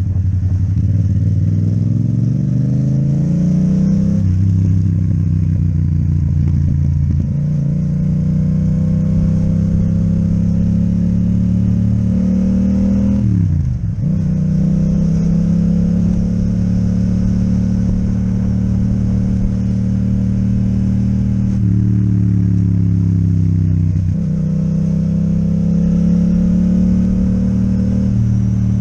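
Yamaha MT-07's parallel-twin engine with an Akrapovic exhaust, riding on the road: the revs climb and drop through several gear changes, with a sharp dip in revs about thirteen seconds in, then steady running.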